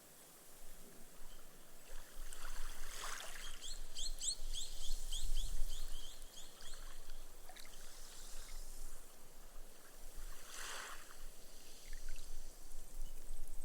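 Gentle small waves washing up onto a sandy beach and soaking into the sand, the foam fizzing as it drains away. The wash swells twice, about three seconds in and again near eleven seconds. A quick run of short high chirps comes between about three and six seconds in.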